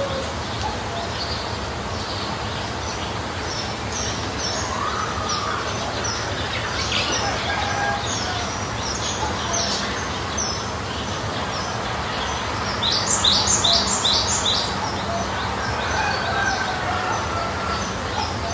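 Small birds chirping in short, repeated high calls, with a run of four louder chirps about two-thirds of the way through, over steady outdoor background noise.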